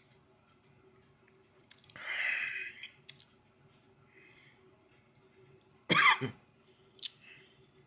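A man coughing and clearing his throat after a sip of whiskey: a breathy sound about two seconds in, then a short, louder cough about six seconds in, with a few faint clicks between.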